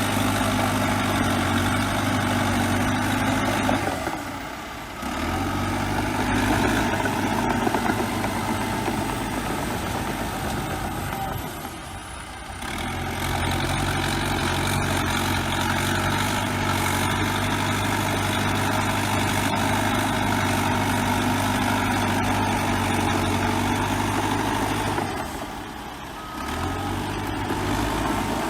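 Bulldozer diesel engine running steadily under work. The sound drops away briefly three times and then comes back.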